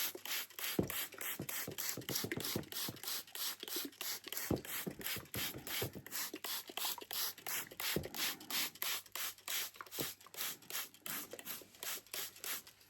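Hand spray bottle misting moss, pumped in quick repeated squirts, about four to five hisses a second.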